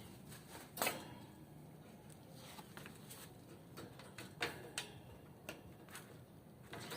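Goldfinches moving about a wire cage: scattered light clicks and brief wing flutters, the loudest about a second in and a few more close together past the middle.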